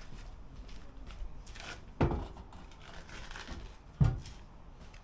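Two heavy knocks about two seconds apart from metal excavator parts being handled during dismantling, with a few fainter clanks in between.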